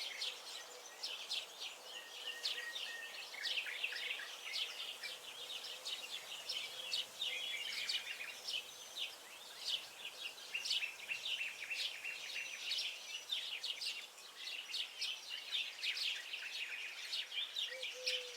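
Many songbirds chirping and singing at once, a dense, unbroken chorus of short high-pitched notes and trills.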